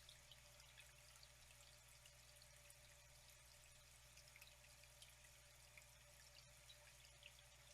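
Faint trickling water, a steady flow with many small drips and splashes.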